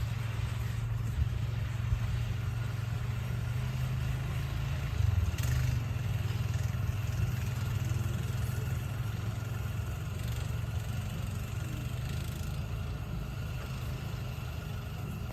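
Off-road vehicle engine running steadily while towing a rider on a long rope through snow, with a brief louder bump about five seconds in.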